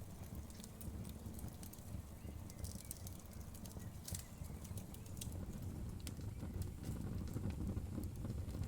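Wood fire burning: a steady low rumble of flames with scattered crackles and pops of the burning wood, including a quick run of crackles about three seconds in and a sharp pop about four seconds in.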